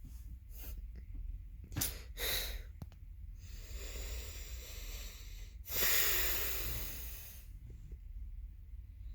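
Breathing close to a phone's microphone: short puffs of breath, then a long loud exhale about six seconds in that fades out, over a steady low hum.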